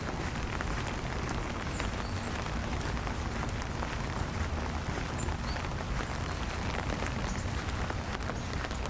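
Steady rain falling, with many small drop ticks close by over a constant low rumble.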